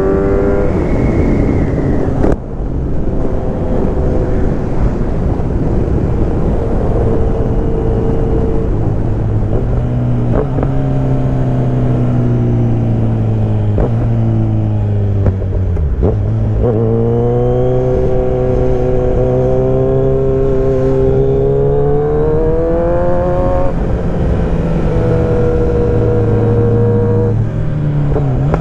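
Kawasaki Z900's inline-four engine under way, pitch climbing as it revs up through a gear, then dropping sharply at each upshift, several times over, with steady wind rush behind it.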